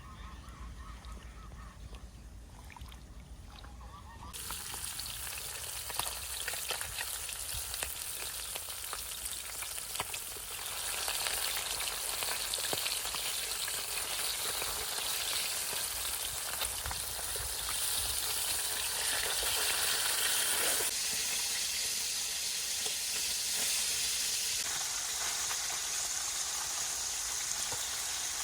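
Food frying in hot oil: a dense crackling sizzle that starts about four seconds in and gets louder around ten seconds in. Geese honk faintly before the sizzle starts.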